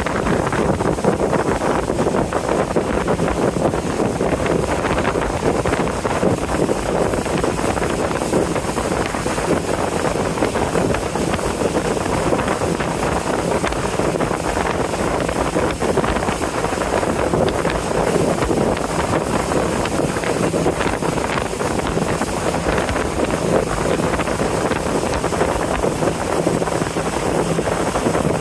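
A boat under way on a river: the engine's steady drone with water rushing past the hull, and wind blowing on the microphone.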